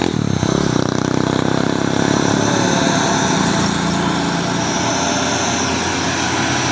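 Mitsubishi Fuso truck's diesel engine running steadily under heavy load, pulling the truck slowly up a steep climb.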